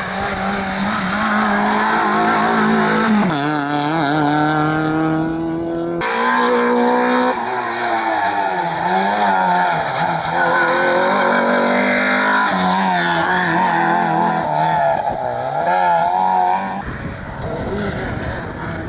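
Rally car engines accelerating hard up through the gears, the pitch climbing and then dropping at each shift, with the sound jumping abruptly from one car to another twice. Tyres squeal in places.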